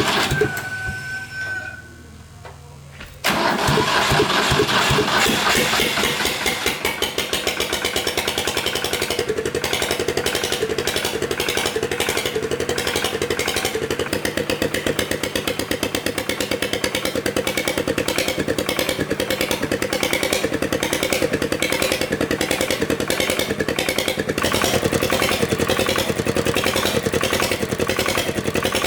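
Engine of a restored old farm vehicle running, then dying away about a second in; after a short pause it comes back abruptly about three seconds in and keeps running with a fast, even beat.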